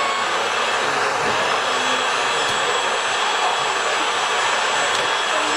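Steady whirring hiss of small electric motors running on scale RC construction models, with faint thin high-pitched whines over it.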